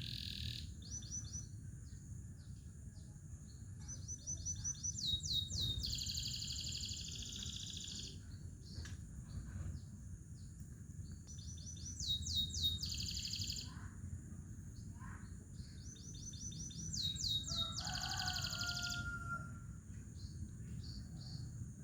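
Domestic canary singing in rapid high-pitched trills and repeated notes, swelling into three louder rolling phrases about six seconds apart, over a steady low background rumble.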